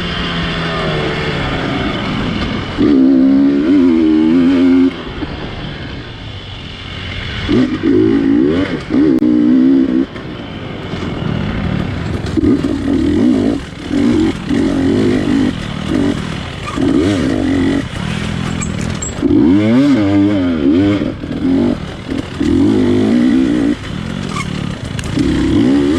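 GasGas dirt bike engine revving hard in short bursts, the throttle snapped open and shut again and again, each rev rising and falling in pitch, as the bike works through tight terrain. Some clatter of the bike over the ground runs underneath.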